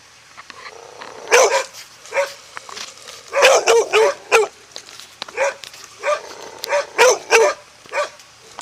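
A dog barking in short repeated barks, a dozen or so in uneven clusters, at a person approaching it; the dog is stuck fast by the chain it has dragged loose.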